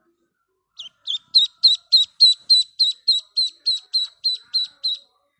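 A bird calling a steady series of about sixteen short, high chirps, about three a second, starting about a second in.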